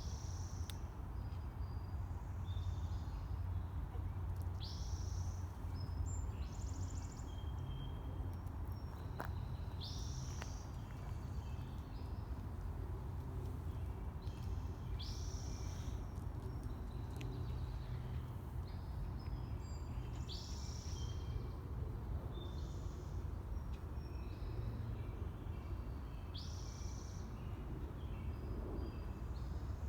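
Songbirds singing, with one high song phrase repeated about every five seconds and shorter chirps between, over a steady low rumble.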